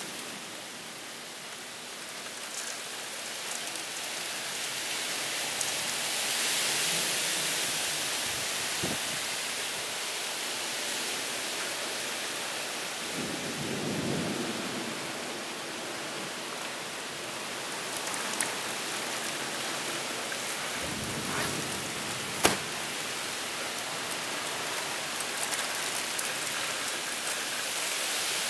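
Heavy rain pouring steadily in a thunderstorm, with low rumbles of thunder swelling about halfway through and again later, and a single sharp click about three-quarters of the way in.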